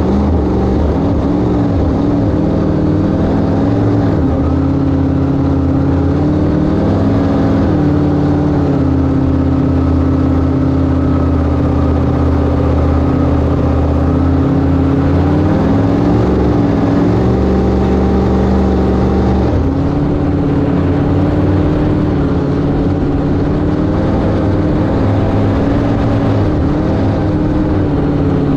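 Inboard engine of a 1971 Sanger flat-bottom V-drive boat running under way at cruising speed, loud and steady, its pitch dipping and rising a few times as the throttle changes.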